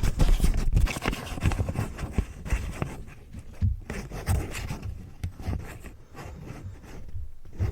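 A paper US ten-dollar bill being crinkled and rubbed, a dense, irregular run of small crackles and scrapes.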